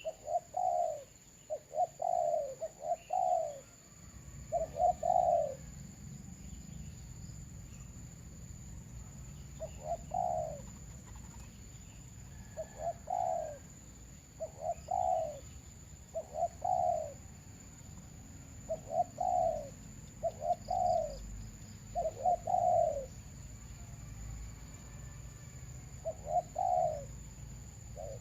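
Doves cooing: short rising-and-falling coo notes in groups of one to four, repeated every second or two, from decoy doves calling to wild birds. A steady faint high whine runs underneath.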